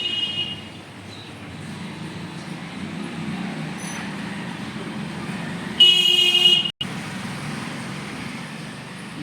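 Street traffic noise with a vehicle horn honking: briefly at the start, then a louder honk of under a second about six seconds in that cuts off suddenly.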